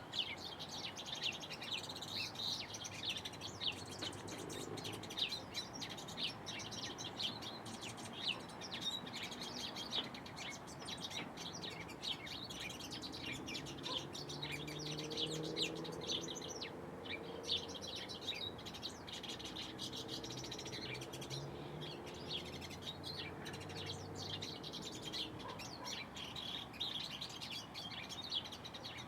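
Small birds chirping: a steady stream of short, high chirps that overlap throughout. A faint low drone sits underneath in the middle stretch.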